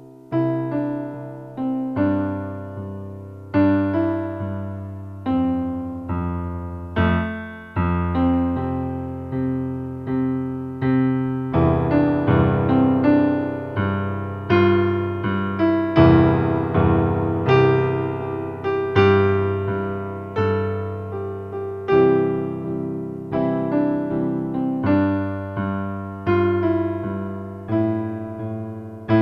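Solo piano playing a slow, gentle piece: notes and chords struck roughly once a second, each left to ring and fade.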